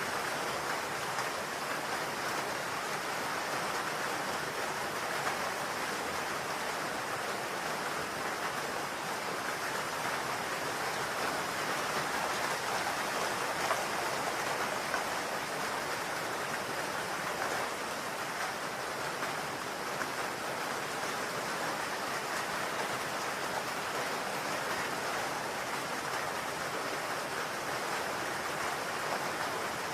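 Steady rain falling on a roof: a dense, even hiss of drops with no let-up.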